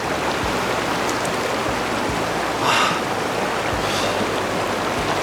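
Clear mountain stream running steadily over rocks, with one brief louder splash a little past halfway through.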